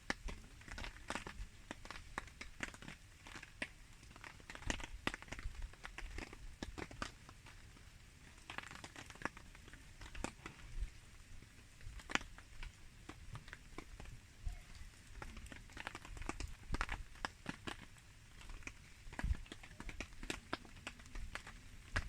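Wood campfire crackling, with irregular sharp snaps and pops of varying loudness over a soft rain-like hiss.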